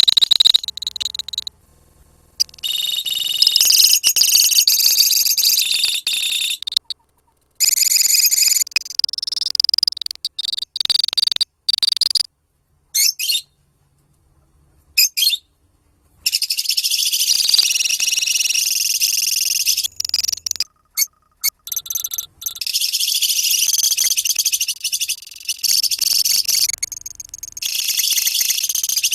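A colony of lovebirds chattering in long bursts of shrill, high-pitched chirps, the extended song bird-keepers call 'ngekek'. The bursts are broken by several short, sudden gaps of silence.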